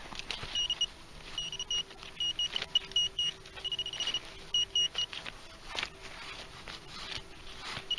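Handheld metal-detecting pinpointer beeping in short, high-pitched pulses, in groups of two or three with one faster run about four seconds in, signalling buried metal (live bullets still in their links) in the soil. Faint rustles of soil being handled under the beeps.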